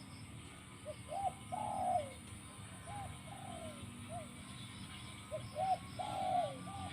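Spotted dove cooing: two phrases of short rising coos, each with a longer falling coo, about four seconds apart, with softer coos between them.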